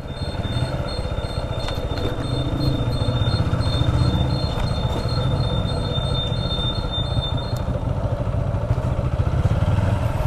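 Motorcycle engine running at low speed, its low rumble pulsing rapidly and steadily. A thin high-pitched tone runs alongside it and stops about three-quarters of the way through.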